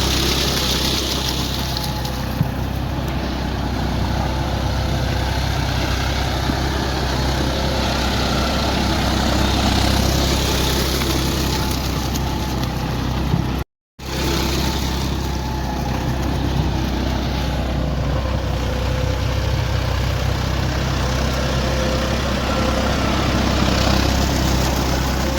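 Swaraj 744 XT tractor's three-cylinder diesel engine running steadily under load while its rotavator churns through waterlogged mud. The sound cuts out for a moment about halfway through.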